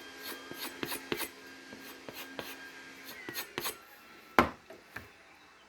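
Knife blade being stropped with a run of quick strokes, light rubbing and clicking, while a steady low hum runs and stops about three seconds in. A single sharp knock about four and a half seconds in.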